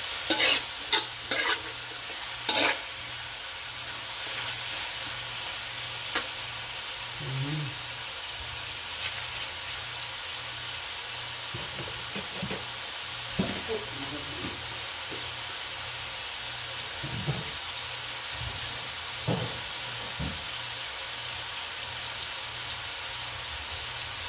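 Crumbled tofu and vegetables sizzling steadily in a metal wok, with a metal spatula scraping and clacking against the pan several times in the first few seconds, then a few scattered light knocks.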